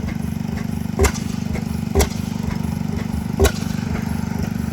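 Antique engines running: a steady, fast low chugging, with a sharp firing bang at irregular intervals of about a second or a little more, four times.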